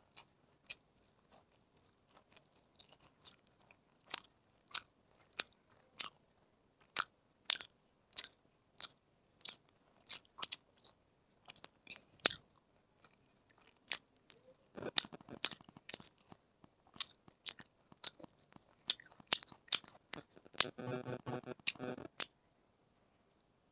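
Close-miked eating sounds: chewing with sharp, wet mouth clicks and smacks coming one after another. Near the end comes a longer, fuller stretch of chewing and crunching as a piece of fried chicken kabab is bitten into.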